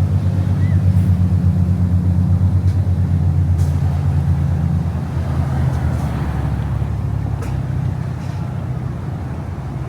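A large engine running steadily with a loud, low rumble that eases a little toward the end.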